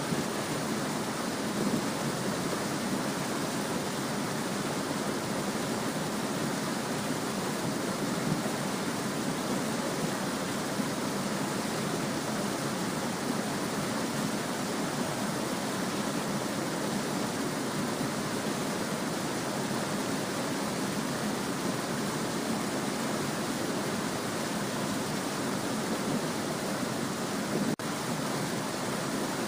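A small stream babbling in a steady, even rush of water. A very brief dip in the sound comes near the end.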